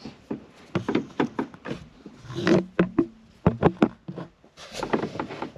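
Plastic dashboard trim of a Suzuki Carry being pried and worked loose by hand: a rapid run of sharp clicks and knocks, with a brief creak about two and a half seconds in.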